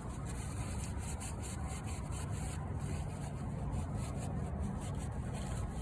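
A cloth wiping and rubbing over a surface in irregular strokes, cleaning up spilled engine oil, over a steady low rumble.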